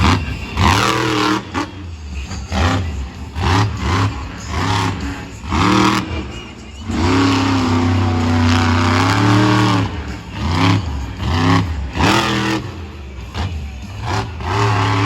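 Monster truck engine revving hard in a run of short blips, the pitch rising and falling with each one. About seven seconds in comes one longer rev, held for about three seconds.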